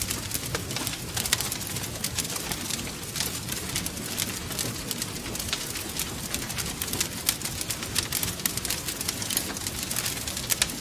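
Wood fire crackling: frequent sharp pops and snaps over a low, steady rumble of burning.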